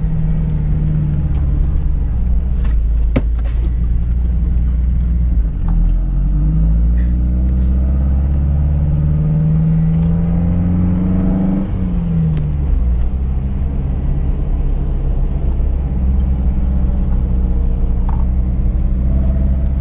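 4x4 SUV engine pulling through soft sand, heard from inside the cabin, with a steady low rumble. The revs climb for several seconds and then drop quickly about halfway through, and a few sharp knocks sound about three seconds in.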